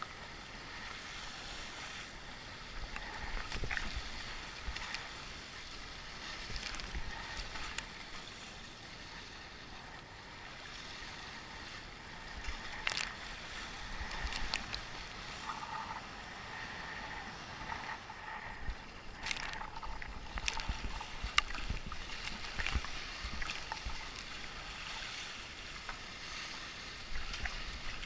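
Sea water rushing and splashing around a sea kayak as it runs with the waves, with sharp splashes every few seconds. Wind rumbles on the microphone.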